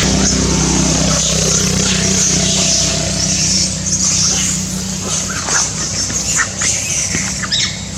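A motor vehicle's engine running with a steady low hum that fades out after about five seconds. Toward the end, a few short high-pitched calls are heard.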